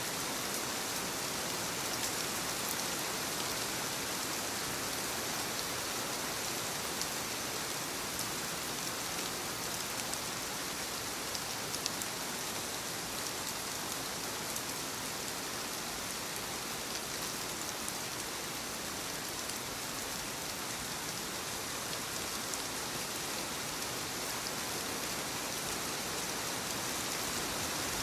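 Steady soft rain falling on leaves, an even hiss of many small drops with scattered single drop ticks.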